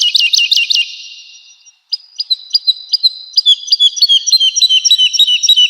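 Woodlark singing: a fast run of high repeated notes, about seven a second, fades out about a second in. After a short pause a new phrase starts near two seconds in and builds into another run of rapid repeated notes.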